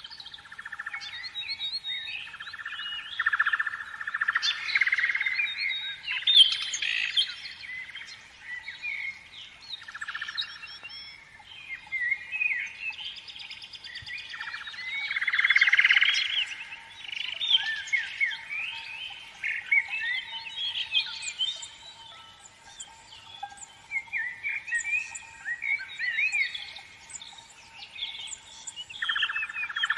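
Birds singing: many overlapping chirps, trills and short whistles, rising and falling, with a faint steady hum-like tone underneath.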